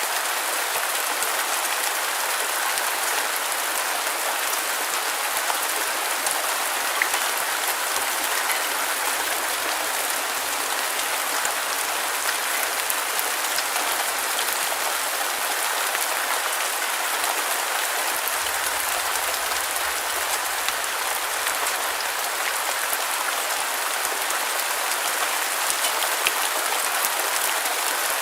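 Steady, even rain noise: a dense hiss of raindrops with fine pattering ticks and no thunder or wind swells.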